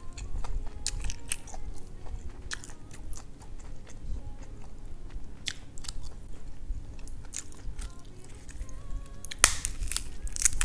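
A person chewing a mouthful of rice with duck intestines: repeated wet mouth clicks and smacks. A louder crisp crackle comes about nine seconds in, as a lettuce leaf is torn.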